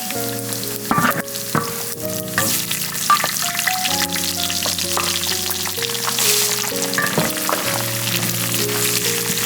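Food sizzling in hot oil in a pan, with a few sharp utensil knocks from stirring, under background music of sustained notes.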